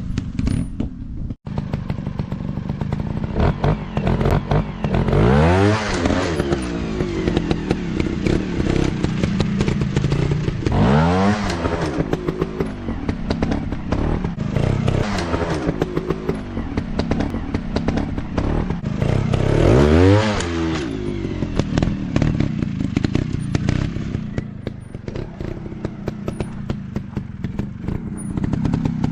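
Dirt bike engines running and revving hard, the pitch sweeping up in repeated rises every several seconds as the throttle is opened, with clattering from riding over rough ground.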